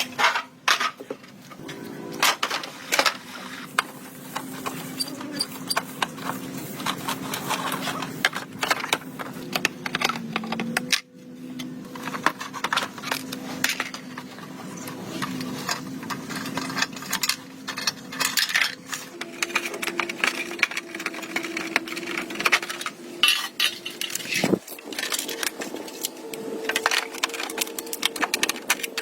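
Metal parts clinking and tapping against each other over a steady motor hum, the hum changing pitch at a couple of abrupt breaks.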